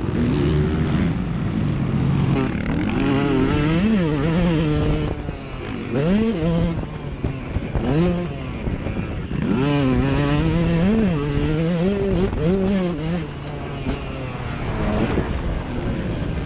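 Motocross bike engines revving hard. The pitch climbs and drops again and again with throttle and gear changes, loudest in two stretches that pass close by.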